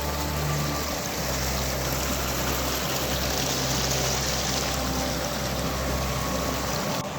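Stream water flowing steadily, a continuous rushing sound over a low steady hum.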